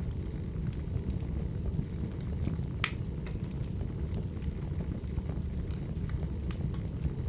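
Wood fire burning, a steady low rumble with irregular sharp crackles and pops of the firewood, the loudest about three seconds in.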